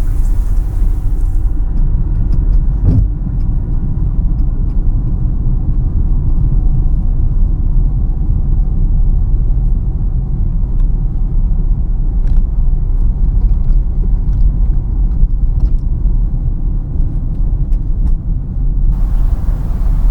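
Steady low rumble of a car's engine and tyres on the road, heard from inside the cabin. The lighter hiss above the rumble falls away about a second and a half in and returns near the end, with a single soft knock about three seconds in.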